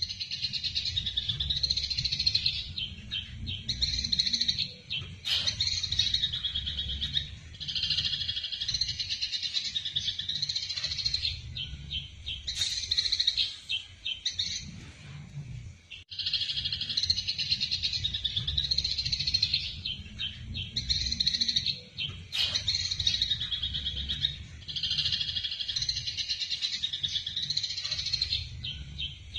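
Eurasian tree sparrows chattering in a dense, rapid run of harsh chirps, the agitated calls of sparrows fighting. A low rumble lies beneath, and there is a brief break about halfway through before the chatter starts again.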